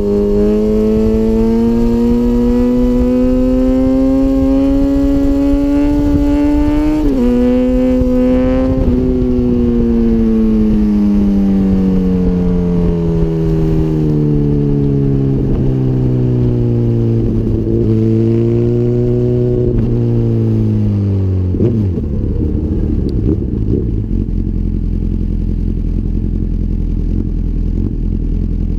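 A 2004 Honda CBR1000RR's inline-four, breathing through a full Micron exhaust, pulls with its pitch climbing slowly, drops once at a gear change, then winds down for over ten seconds with a few short blips. About three-quarters of the way through it settles to a steady low idle.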